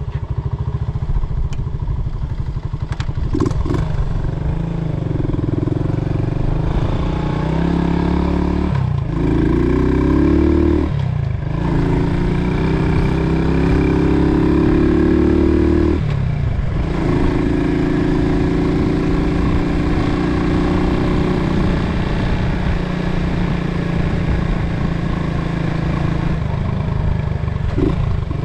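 1972 Honda SL70's small single-cylinder four-stroke engine running on part choke just after a cold start. Its pitch rises and falls several times about a third of the way in, then it settles into a steady run. It runs a little cold-blooded.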